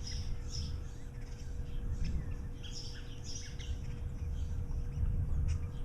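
Birds chirping in short scattered calls over a steady low rumbling noise, with a faint steady hum underneath.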